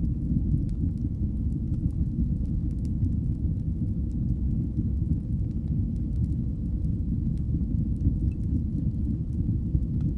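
Fire burning in a fireplace: a steady low rumble with scattered faint crackles and pops.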